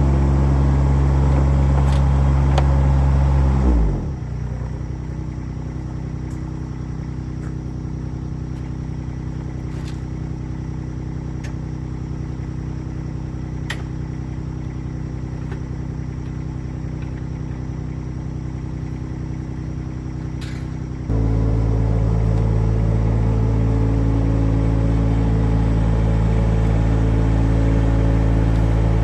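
An engine running at high speed winds down to a low idle about four seconds in, runs steadily there, then jumps straight back up to high revs about three-quarters of the way through.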